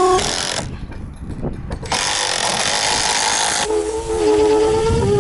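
Cordless power drill driving long screws into a roof panel. A short burst of motor whine comes right at the start, then a harsh, noisy run of about two seconds, then a steady whine whose pitch wavers under load.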